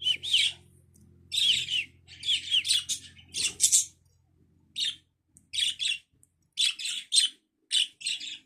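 Pet budgerigars chattering and warbling to each other in quick bursts of high chirps and quick pitch glides, with short gaps between the bursts.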